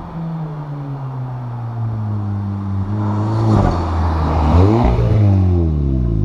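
Volkswagen Scirocco R's turbocharged 2.0-litre four-cylinder engine as the car drives past at speed. The engine note grows louder as it approaches and rises under acceleration about three seconds in. It drops in pitch as the car passes, loudest about five seconds in.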